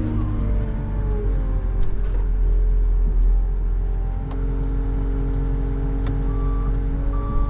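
Plow truck's engine running under load, its pitch rising and falling as it pushes snow. A reversing alarm starts beeping about six seconds in.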